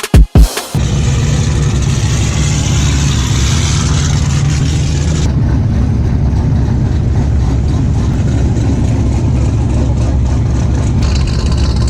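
Vehicle engine running steadily at a low, even pitch. A hiss rides over it for about the first five seconds, then drops away.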